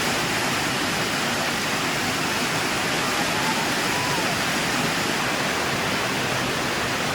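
Steady downpour of rain, an even hiss without let-up.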